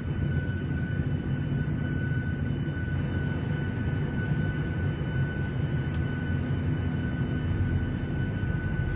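Airliner cabin ambience: the steady low rumble of jet engines and airflow heard inside the cabin, with a faint steady high whine above it.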